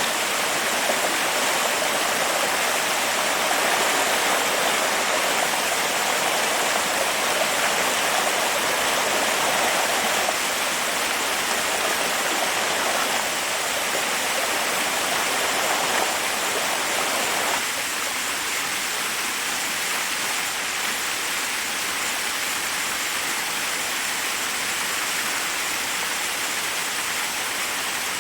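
Forest waterfall, water rushing steadily over rocks. The rush drops a little in level about a third of the way in, and again just past halfway, where it loses some of its fuller middle.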